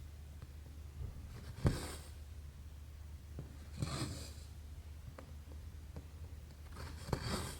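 Needle and embroidery thread being pulled through 11-count cross-stitch canvas: three soft swishes of thread drawn through the fabric, each starting with a sharp click, about every two to three seconds.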